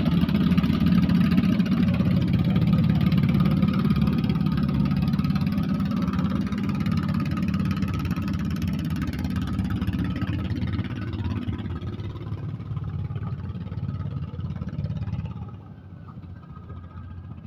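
Klotok river boat's motor running steadily, slowly fading and then dropping off sharply near the end.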